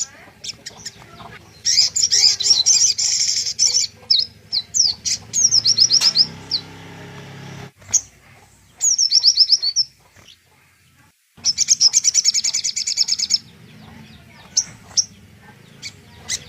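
A songbird singing: bursts of rapid, high trills lasting a second or two, with separate down-slurred notes between them, used as a tutor-song recording for training murai batu (white-rumped shama). The sound cuts out briefly twice near the middle.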